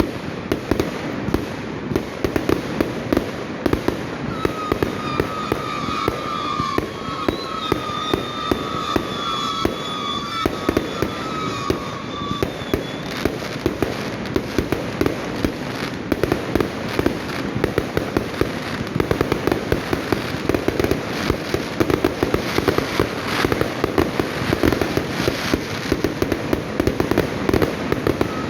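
Many fireworks going off at once, a dense, continuous run of overlapping bangs and crackles. A wavering high tone rises over the bangs about five seconds in and fades out around twelve seconds.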